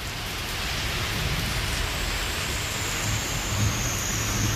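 Torrential monsoon rain pouring down in a steady, dense hiss.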